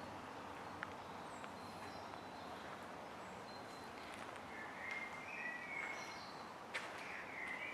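Faint bird chirps over a steady background hiss: scattered short chirps, more of them in the second half, with a few light clicks.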